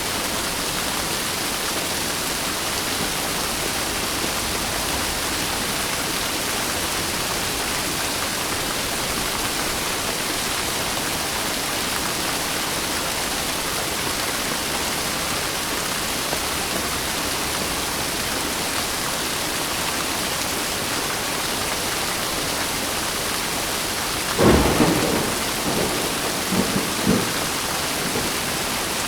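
Steady heavy rain, with a sudden clap of thunder near the end followed by a few seconds of lower rumbling.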